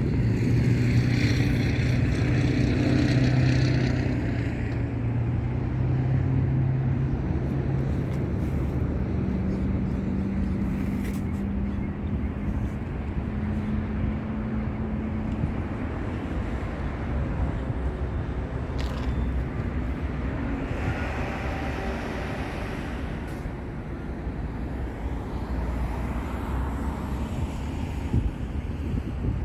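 Aircraft engine drone over a steady low rumble, strongest in the first few seconds, then a fainter engine tone that rises slowly in pitch.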